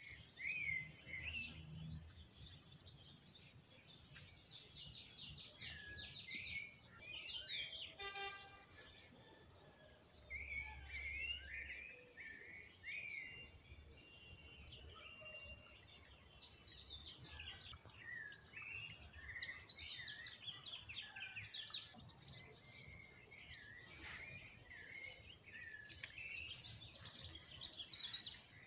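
Several birds chirping and singing almost without pause, many short calls and warbled phrases overlapping, over a low uneven rumble.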